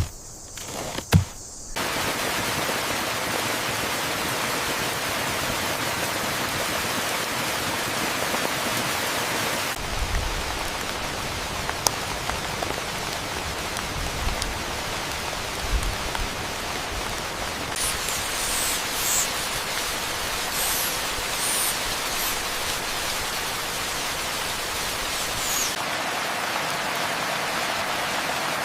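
Steady heavy rain, starting suddenly about two seconds in after a sharp knock, with a few low thumps around the middle and faint high chirps later on.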